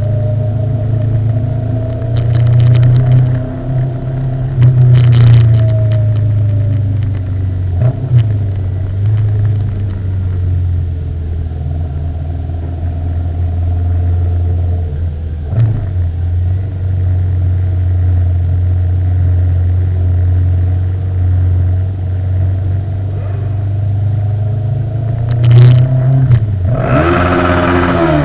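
Motorcycle ride on the road: a steady, loud engine drone with a few short knocks. Near the end a louder vehicle sound falls in pitch as it passes.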